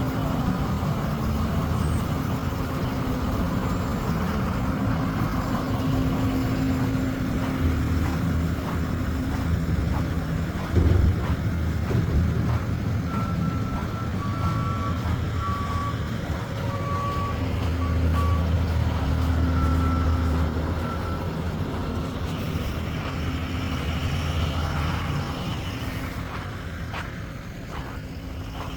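A heavy truck's engine running nearby, its drone swelling twice, with a reversing beeper sounding in short on-off beeps for several seconds in the middle. A single sharp thump comes about eleven seconds in.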